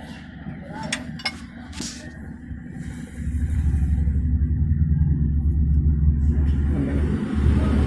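A few sharp metallic clicks, then about three seconds in a motor vehicle's engine starts a loud, steady low rumble that keeps running.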